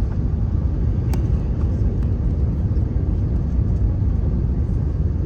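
Steady low rumble of a British Airways Airbus A380's four jet engines as it comes in to land, with a single sharp click about a second in.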